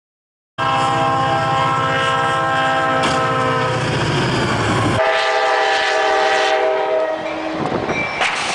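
Train horn sounding a long, loud chord over the rumble of a moving train. About five seconds in the sound cuts abruptly to a different horn blast, which stops near the end, leaving rumbling noise.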